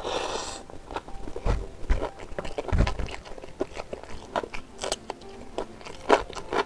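Close-miked mouth sounds of a man chewing a mouthful of rice and beef ribs: a steady run of wet clicks and smacks with a few crisp crunches. There is a short rushing burst right at the start and a few dull low thumps in the first three seconds.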